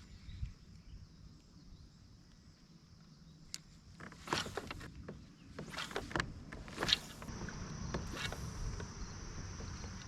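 Kayak paddle strokes splashing in the lake water: a series of dips starting about four seconds in, roughly one to one and a half seconds apart. Under them runs a faint steady high-pitched hum.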